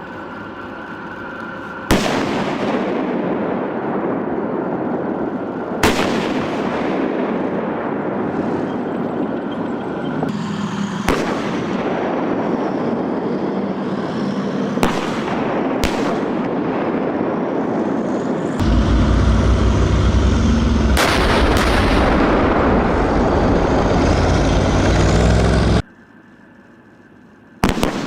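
Main gun shots from South Korean main battle tanks: about eight sharp blasts a few seconds apart, each followed by a long rumbling decay, over steady background noise that changes suddenly several times where clips are joined.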